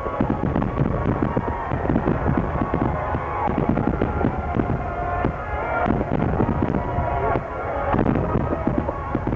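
Dense barrage of aerial fireworks: rapid booms and crackling bursts one after another, with music playing behind them.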